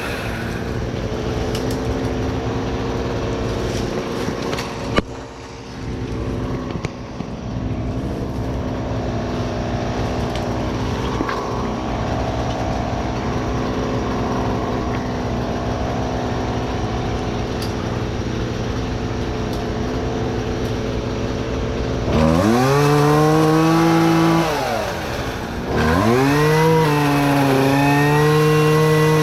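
A small petrol engine running steadily, then revving up and down sharply several times near the end.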